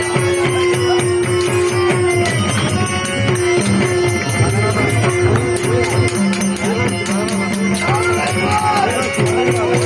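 Traditional Konkani Dashavatar folk music: a voice singing in gliding phrases over long held accompanying notes, with steady, fast jingling percussion.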